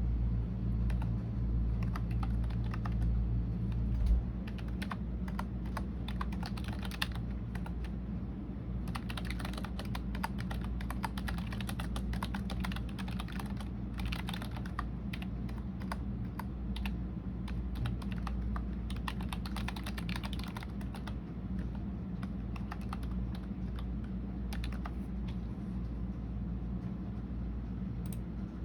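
Computer keyboard typing: a run of quick, irregular keystroke clicks in uneven bursts over a steady low hum.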